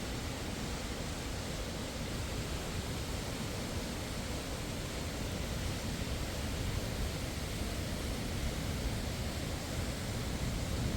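Steady rushing of a waterfall and river, an even wash of noise with no pauses.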